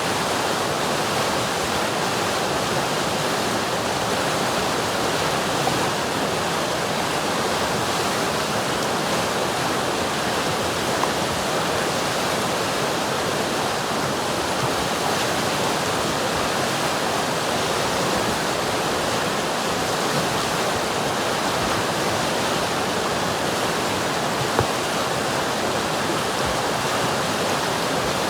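River water rushing and splashing in a steady, unbroken wash, with a few faint splashes standing out here and there.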